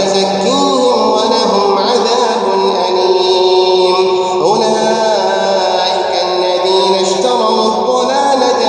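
A man reciting the Quran in a slow, melodic chant, holding long drawn-out notes that glide up and down in pitch.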